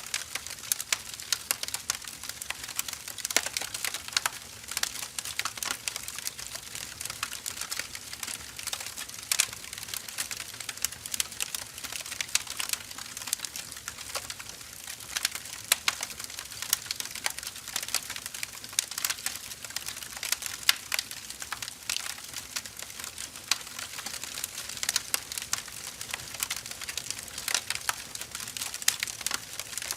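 Burning firewood crackling: many irregular sharp pops and snaps over a steady hiss.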